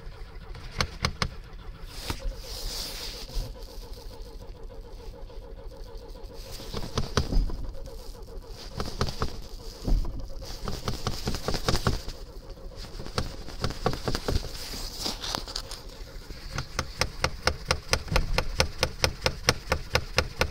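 Lada car engine being cranked on a cold start in hard frost, turning over in several uneven bursts of rapid rhythmic pulses and sputtering, with a steady run of pulses near the end.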